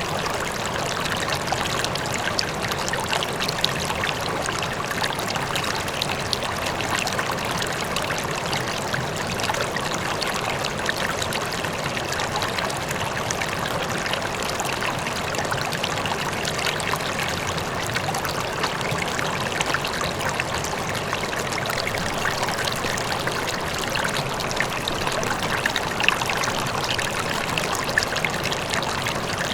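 River water flowing over rocks: a steady rush with a constant splashing and babbling.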